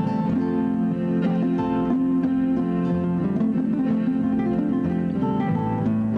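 Background music: acoustic guitar plucked and strummed, with held notes under a steady melody.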